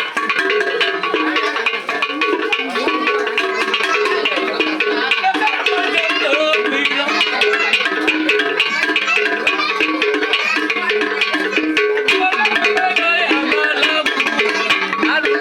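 Local traditional village music played live: fast, steady percussion over a repeating pitched melody.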